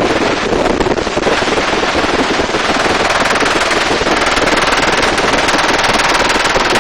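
Helicopter rotor and engine noise heard from inside the cabin: a loud, steady, rapid chop.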